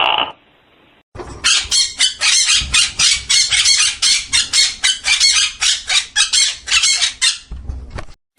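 A bird squawking over and over in rapid harsh calls, about three or four a second, which stop abruptly near the end.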